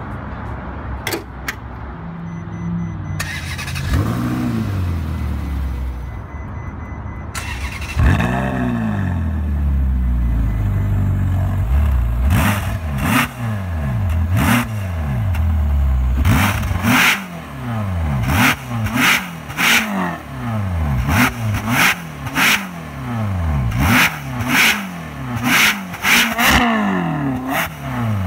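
Ferrari California's 4.3-litre V8, heard at its quad exhaust tips: after a couple of sharp clicks about a second in, the engine rises and falls a few times. About eight seconds in it flares loudly, then settles. From about twelve seconds in it is blipped repeatedly, more than one quick rev a second.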